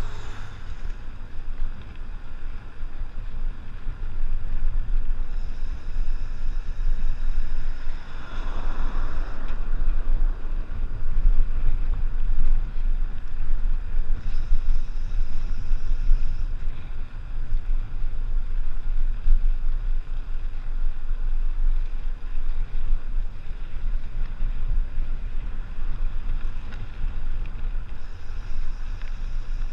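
Wind buffeting the microphone of a camera carried on a moving mountain bike: a steady low rumble, with a faint high hiss coming and going three times.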